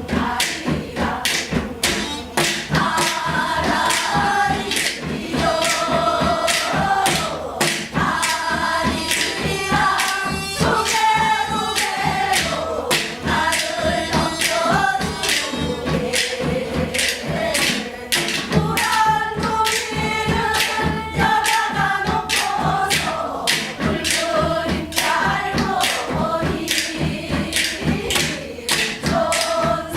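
Korean gyeongseodo sori (Gyeonggi and Seodo folk song) sung live, the melody sliding and bending, over a steady pattern of drum strokes.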